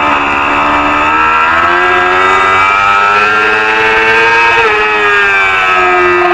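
Racing motorcycle engine revving up under acceleration for about four seconds, then the revs drop sharply just before five seconds and fall away steadily.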